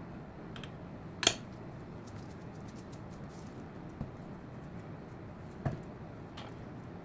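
A few scattered sharp clicks and knocks of kitchen utensils, the loudest about a second in, over a steady low background hum.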